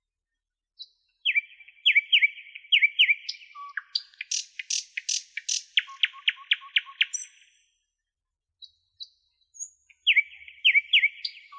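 A songbird singing: a series of quick down-slurred chirps, then a fast run of sharp repeated notes. After a short pause the same chirp phrase starts again near the end.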